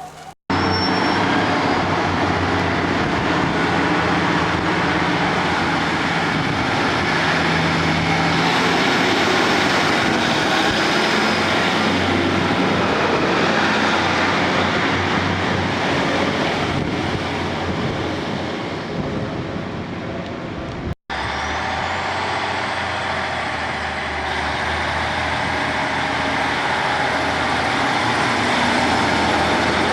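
Train running with its engine loud and steady, a low hum under a broad rumble and a faint high whine that rises in pitch twice. The sound cuts out abruptly for an instant twice, about half a second in and about two-thirds of the way through.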